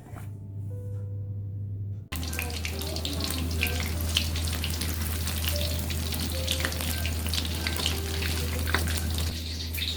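Food frying in hot oil in a pan, a steady sizzle full of small crackles and pops that cuts in suddenly about two seconds in. A steady low hum runs underneath.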